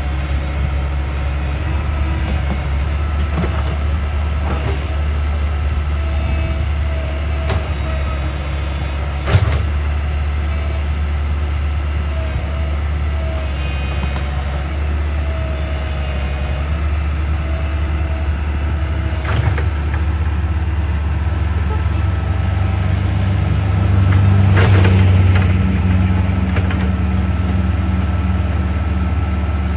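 Backhoe's diesel engine running steadily, with a sharp knock about nine seconds in and the engine working louder for a couple of seconds about three-quarters of the way through.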